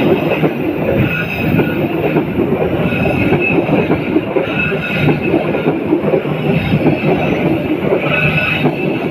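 Passenger train rolling past close by on an uphill grade: a steady rumble and clatter of wheels on the rails, with a faint squeal now and then.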